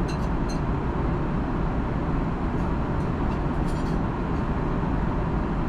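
Steady roar of an Airbus A330-200 airliner cabin in flight: constant engine and airflow noise, heaviest in the low end, with a faint steady hum and a few faint clicks.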